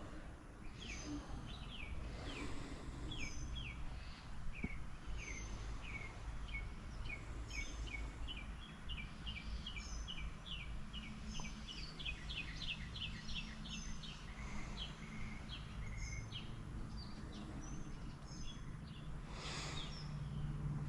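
Songbirds singing outdoors: runs of short, quick, falling chirps, at times several a second, over a steady low hum.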